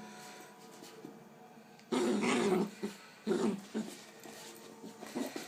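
Bull terrier puppy growling in rough bursts: a long growl starting about two seconds in, then several shorter ones.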